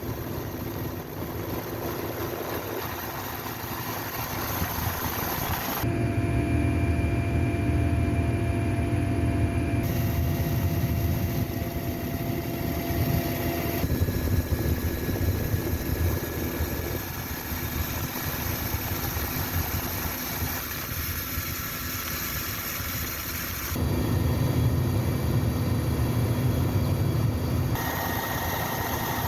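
Steady engine noise from military helicopters and convoy vehicles, heard across a run of edited shots, so the tone and loudness change abruptly every few seconds.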